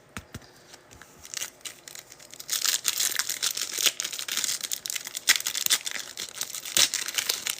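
A trading card pack's wrapper being torn open and crinkled in the hands: a few light clicks, then crinkly rustling that starts about a second and a half in and grows louder.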